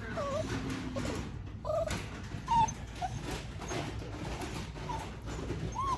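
Portuguese Water Dog puppy whimpering in short, high whines, over and over, while its nails are being clipped and it wants them left alone.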